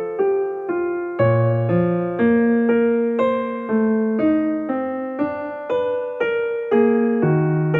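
Soft background music: a piano playing a slow, steady line of single notes, about two a second, each ringing on.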